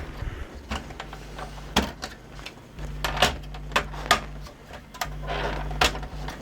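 Irregular clicks and knocks of plastic and metal as an LG VCR/DVD combo unit's casing is handled and taken apart, over a low hum that comes and goes.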